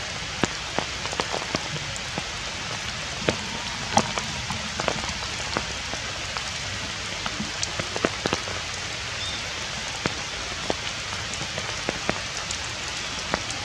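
Steady rain falling on wet ground, puddles and stone: an even hiss with many close drops landing as irregular sharp taps.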